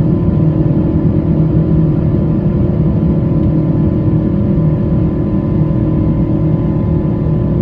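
Pratt & Whitney PW4090 turbofans of a Boeing 777-200ER heard from inside the cabin beside the wing: a steady, deep engine drone with a few held whining tones over the rumble.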